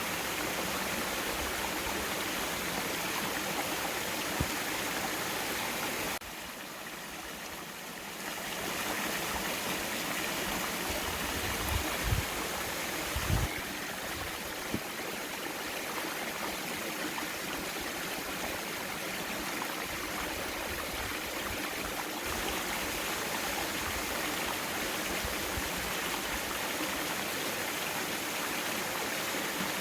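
Mountain valley stream flowing steadily, a constant rush of water. It drops quieter for about two seconds around six seconds in, and a few brief low bumps come around twelve to thirteen seconds in.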